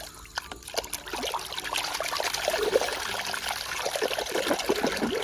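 Water pouring and trickling over a muddy toy bull as it is washed clean, louder from about a second in.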